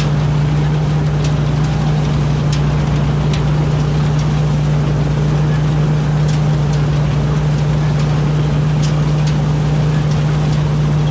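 Combine harvester's diesel engine running steadily under load, a constant low drone with occasional sharp clicks.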